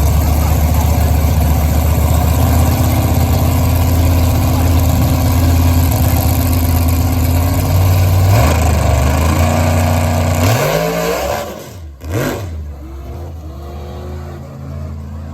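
Drag car engine running loud and steady at a low pitch, then revving up with a rising pitch about ten seconds in. It cuts off abruptly near twelve seconds, after which a quieter engine sound continues with small rises in pitch.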